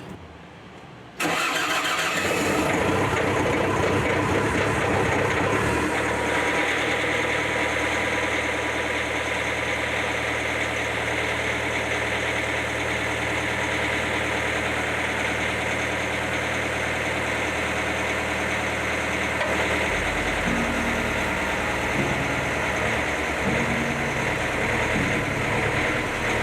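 Bobcat S530 skid steer's diesel engine starting about a second in and then running steadily, with its note changing near the end. This is a test run after a bucket cylinder seal repair.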